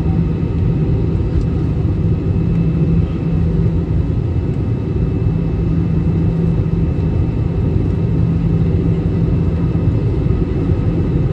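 Airliner cabin noise in flight: the steady drone of the engines and airflow, a low rumble with a constant hum.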